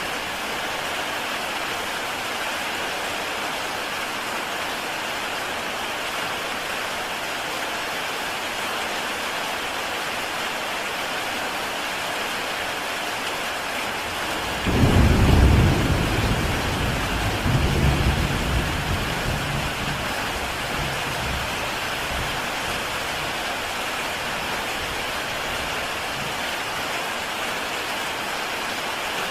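Heavy rain falling steadily on a tile roof. About halfway through a low rumble of thunder breaks in suddenly, swells a second time and fades away.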